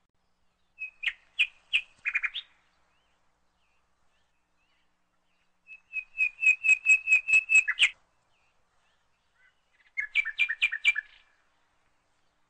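A bird singing three short phrases of rapid repeated chirps, the middle phrase the longest, with silence between them.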